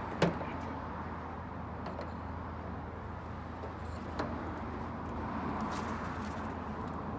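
Two sharp knocks over a steady low hum: a loud one just after the start and a fainter one about four seconds in.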